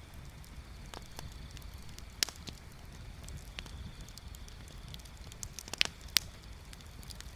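Bonfire crackling, with scattered sharp pops of burning wood; the loudest snaps come about two seconds in and a little before the end.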